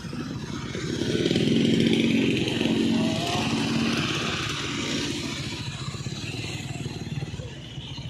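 A small petrol engine running steadily, with a louder engine sound swelling about a second in and fading away over the next few seconds.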